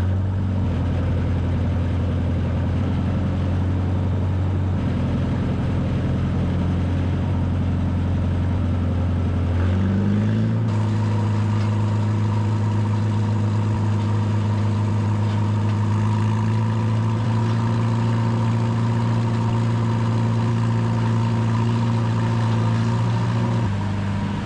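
Farmall Super H tractor engine running steadily; its speed picks up a little about ten seconds in and drops back near the end.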